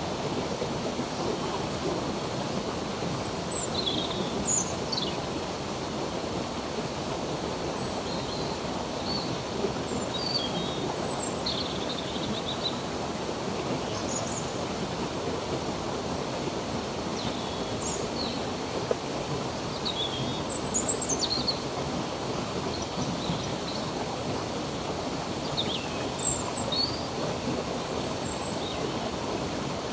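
A stream of running water rushing steadily, with birds chirping and whistling in short calls scattered over it.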